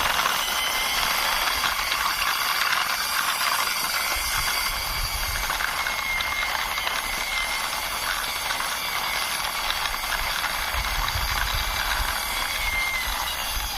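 A plastic toy car pushed along by hand, its wheels and gearing giving a steady, rapid mechanical clicking rattle.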